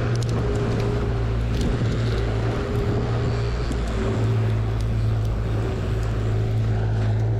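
Fishing boat's engine running steadily underway, a constant low drone with a fainter higher hum, over wind and water noise.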